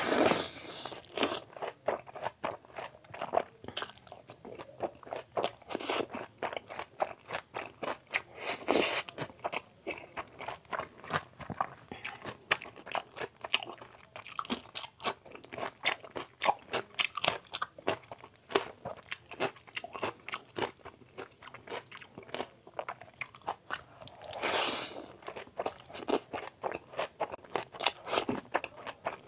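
Close-miked chewing and lip smacking of a man eating chow mein, egg curry and chili chicken by hand: wet smacks several times a second, with a few louder crunchy bites.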